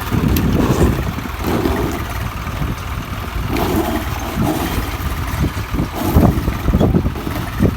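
Swaraj 834 XM tractor's three-cylinder diesel engine running.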